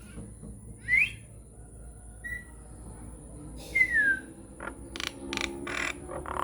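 Nias hill myna giving a few separate clear whistles: a short rising note about a second in, a brief level note, and a falling whistle near the middle, followed by several sharp clicks near the end.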